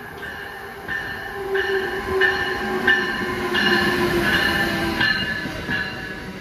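Amtrak train led by an ACS-64 electric locomotive running past the platform. The rush of wheels on rail swells to its loudest as the locomotive goes by, with high-pitched wheel squeal that pulses on and off and a hum that drops slightly in pitch.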